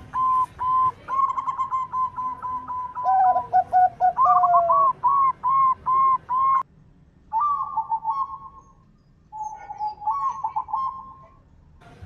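Zebra dove (perkutut) cooing: rapid runs of short, repeated notes, with a lower run overlapping for a couple of seconds. The song breaks off suddenly just past halfway, then goes on in shorter phrases.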